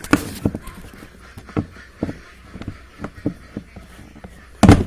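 Irregular sharp knocks and taps on the parts of an old washing machine, with the loudest knock near the end, as a locking catch holding the spin-dryer connection is knocked loose.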